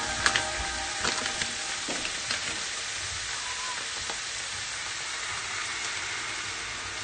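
Ground meat sizzling in a hot frying pan, with a few light taps and clicks in the first couple of seconds.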